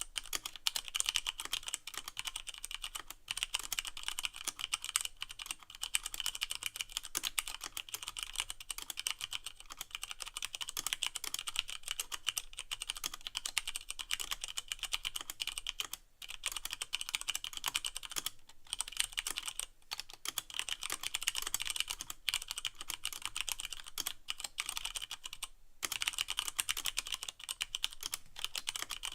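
Continuous fast typing on a Leopold FC660M mechanical keyboard with Cherry MX Brown switches and no O-rings, each keystroke a sharp clack as the keycap bottoms out. The stream of clacks pauses briefly a few times.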